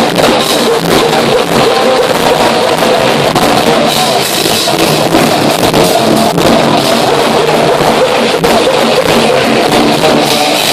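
Heavy metal band playing live: loud distorted electric guitars and a pounding drum kit in a steady wall of sound. The recording is overloaded and thin, with almost no deep bass.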